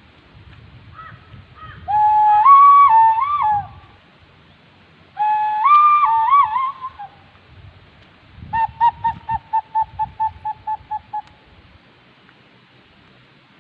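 A bird singing: two clear whistled phrases of flat notes stepping up and down in pitch, then a quick run of about fourteen short, even notes at roughly five a second.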